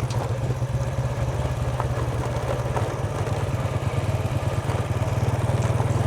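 Engine of a vehicle being driven, running steadily at an even speed, with a few faint clicks.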